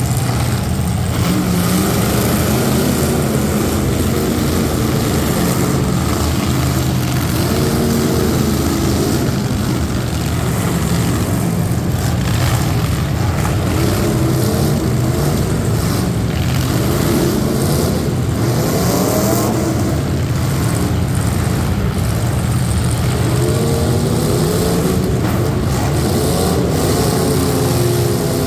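Loud competition truck engines running hard, the revs rising and falling again and again.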